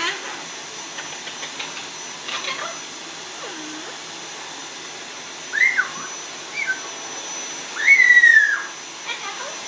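Amazon parrot whistling: a few short rising-and-falling whistles, then one longer arched whistle near the end, the loudest of them.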